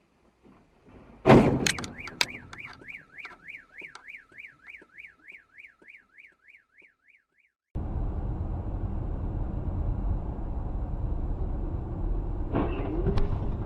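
A loud crash impact about a second in, followed by a car alarm warbling up and down about three times a second. The alarm cuts off suddenly and gives way to steady road and engine rumble from a moving car.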